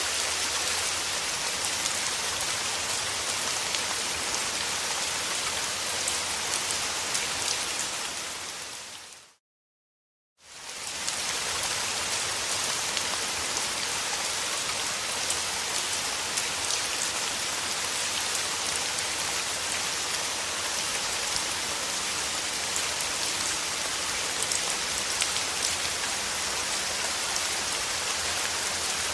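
Steady rain falling in a dense patter of drops. About nine seconds in it fades out to a second of silence, then fades back in.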